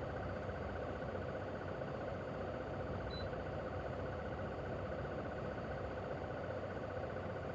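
Mitsubishi Heavy Industries SRC2221T air-conditioner outdoor unit running steadily in cooling mode: the propeller fan's even rush of air over the hum of its single rotary inverter compressor.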